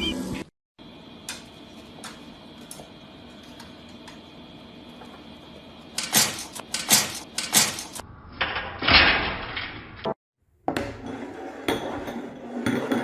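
Quiet room sound with a few faint clicks, then a run of sharp clattering knocks, followed by a short rushing noise and more scattered knocking.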